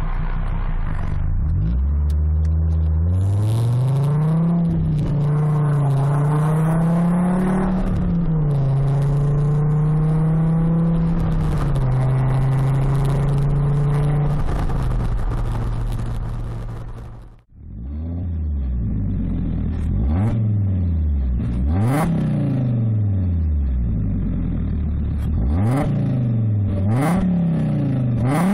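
Fiat Coupé 20v's naturally aspirated five-cylinder engine through a loud custom stainless exhaust with a sports catalyst. It pulls steadily under acceleration, then cuts out abruptly about two-thirds of the way through. After that it revs up and drops back about seven times in quick succession, with sharp cracks on several of the revs.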